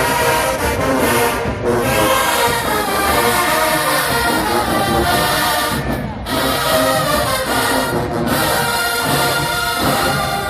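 HBCU marching band playing loud brass music in full ensemble, with short breaks between phrases about 1.5, 6 and 8 seconds in.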